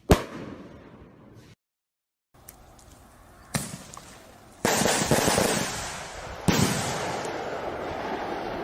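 Fireworks going off. A sharp bang at the start is followed by a brief dead gap, then further bangs about three and a half, four and a half and six and a half seconds in, each trailing into a long, dense crackle that fades slowly.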